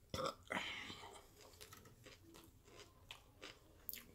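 A person chewing a mouthful of Philly roll sushi: faint, short wet clicks and smacks of the mouth, a little louder in the first second.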